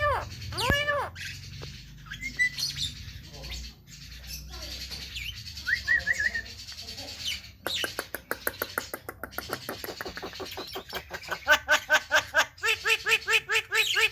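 Javan myna calling: a few arching whistled notes, then from about eight seconds a fast run of clicks that turns into rapid repeated chattering notes, about five or six a second.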